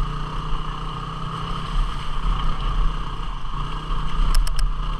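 A 250cc single-cylinder dual-sport motorcycle engine running steadily under way on the trail, heard from the rider's own bike with wind noise. Three quick clicks come close together a little past four seconds in.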